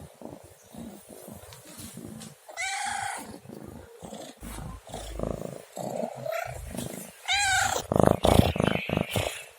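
Domestic cat meowing twice, about two and a half seconds in and again near the end, over a steady low purr. A loud, rough noise follows the second meow.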